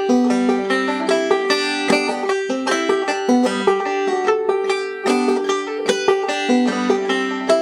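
Solo five-string banjo played clawhammer style in open G tuning at a slowed tempo: a steady, even run of plucked notes with alternate-string pull-offs imitating bluegrass rolls.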